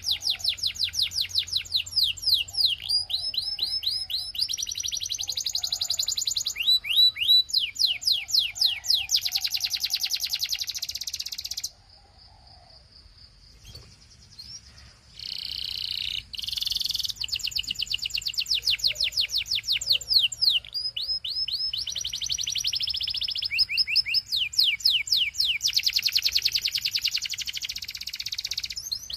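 Belgian canary singing long runs of fast trills and rolls: rapid repeated high notes and short glides. About halfway through the song breaks off for a few seconds, then resumes.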